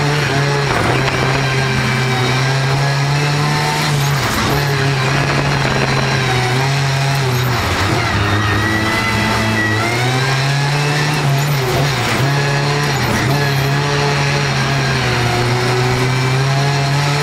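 Racing car's engine heard from inside the cabin on a fast lap, revs climbing and dropping repeatedly as it accelerates, lifts and brakes through the corners.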